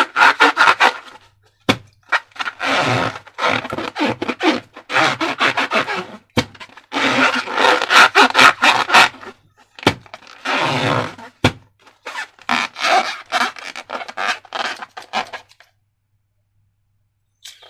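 Slime being handled and squished: repeated spurts of sticky, crackly squelching with sharp little pops, each lasting a second or two. It stops a couple of seconds before the end.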